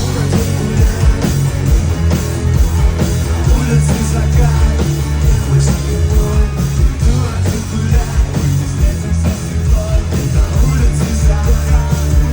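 Loud live rock music from a band on stage, with sung vocals over heavy bass and drums.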